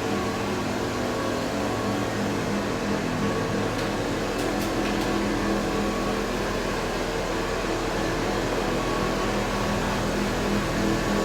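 Steady mechanical hum of a carbonization furnace's machinery running, an even drone with several low tones that does not change.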